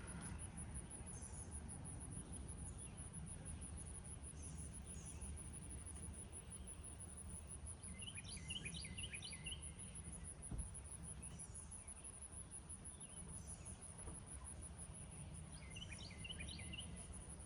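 An insect trills steadily at a very high pitch in a fine continuous pulse, while a songbird twice sings a quick burst of rapid notes and other birds give short high calls every few seconds. A faint low rumble runs underneath.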